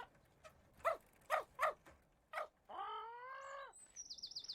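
A dog barking in a few short yaps, then giving one longer whine, with a high warbling trill starting near the end.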